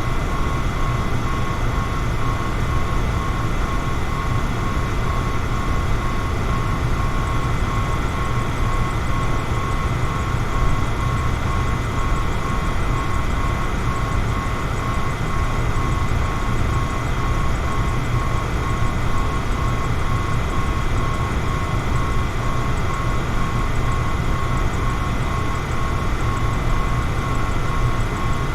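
Electric fan running steadily: an even, low-heavy whooshing hum with a faint steady whine in it.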